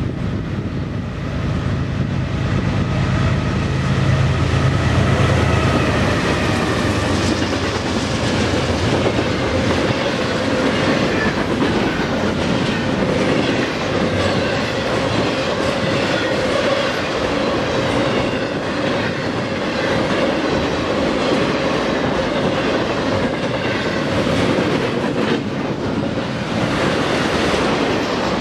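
A train passing close by: a deep diesel locomotive rumble for the first several seconds, then the steady rolling noise of railcars going past, with faint wavering high-pitched wheel squeal over it.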